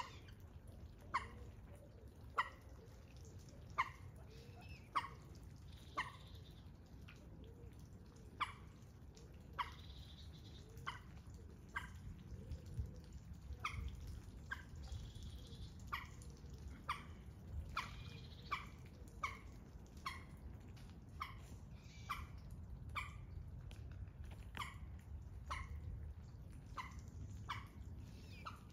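A bird giving short, sharp calls over and over, about one a second, over a faint low rumble.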